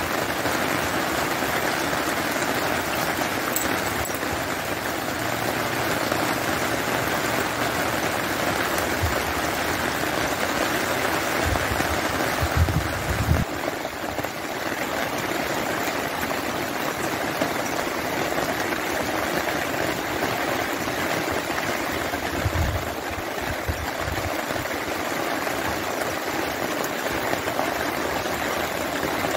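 Steady rain falling on wet ground, an even hiss with a few brief low rumbles about halfway through and again later on.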